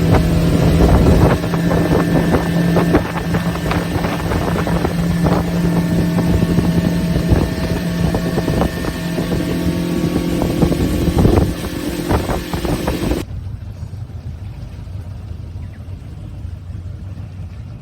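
Motorboat engine running steadily at speed, with a constant drone and scattered knocks and buffets. About thirteen seconds in, the sound turns suddenly quieter and duller, as a muffled engine hum.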